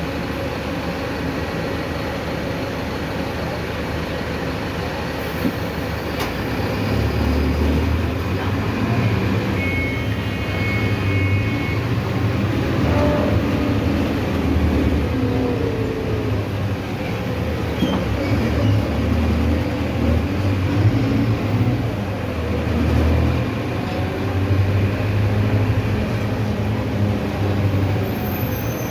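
Mercedes-Benz OF-1519 city bus's diesel engine running while under way, with road and body noise. The engine rumble grows stronger about six seconds in. A brief high beep sounds about a third of the way through.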